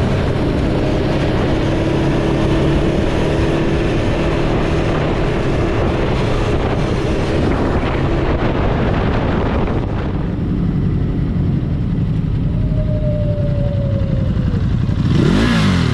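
Ducati Hypermotard motorcycle running while riding in town traffic, engine tones steady under wind and road noise. The sound thins out about ten seconds in, and a short loud rush with a bending pitch comes near the end.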